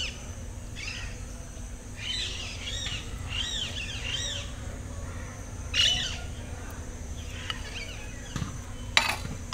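A bird chirping: a quick run of short rising-and-falling notes from about two to four seconds in, another call near six seconds, and a sharp knock just before the end.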